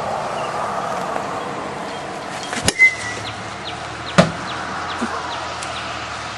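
Two sharp knocks about a second and a half apart over a steady hiss of wind and outdoor noise, the first followed by a brief high ring, then a few faint ticks.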